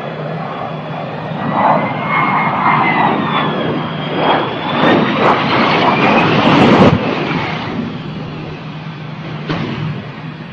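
Jet airliner engines at close range, a rushing roar with a high turbine whine that rises and falls in pitch. It grows loudest around the middle, drops off abruptly about seven seconds in, and then continues more quietly.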